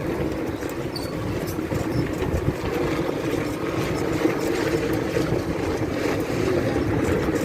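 Motor vehicle engine running steadily: an even drone over a low rumble.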